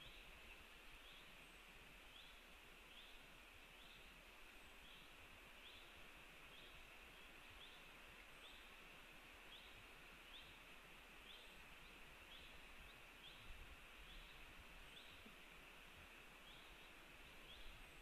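A bird's short, high, falling call, repeated steadily a little over once a second, faint against a steady hiss.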